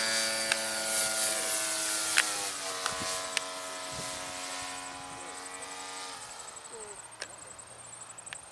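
Electric RC model airplane's motor and propeller whining steadily overhead, dropping in pitch about two seconds in and again a moment later as it passes or throttles back, then fading away. A few sharp clicks are scattered across it.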